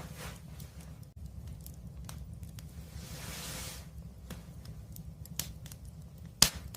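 Wood fire crackling, with scattered small snaps over a low steady rumble. A short hiss rises about halfway through, and one loud sharp pop comes near the end.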